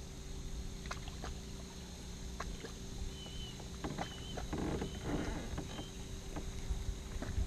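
Water lapping and sloshing against a kayak hull, with a louder slosh about four to five seconds in. Scattered light clicks and knocks of gear being handled, and a few faint high chirps.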